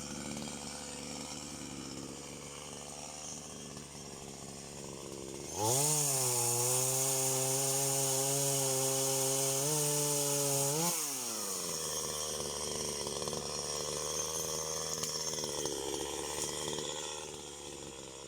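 Petrol chainsaw idling, then revved to full throttle about six seconds in, held for about five seconds, and let back down to idle with a falling pitch.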